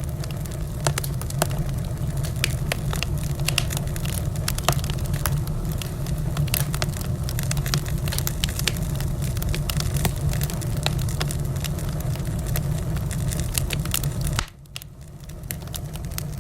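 Wood fire in a fireplace crackling, with frequent sharp pops and snaps over a steady low rumble of the flames. The rumble drops away abruptly about fourteen seconds in and then slowly builds back.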